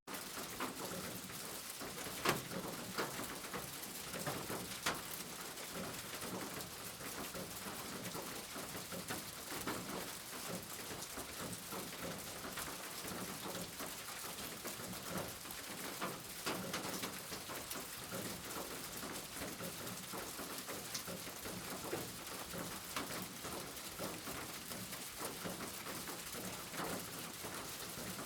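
Steady rain falling, with scattered sharper taps of individual drops striking close by.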